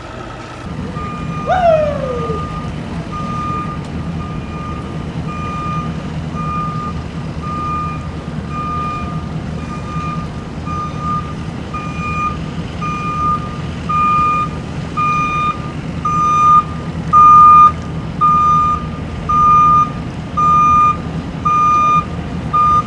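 Vehicle backup alarm beeping about once a second, the beeps getting louder in the second half, over a steady low engine hum. A short falling squeal sounds about a second and a half in.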